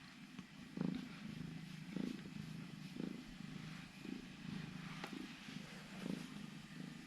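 Domestic cat purring steadily, swelling about once a second with its breathing.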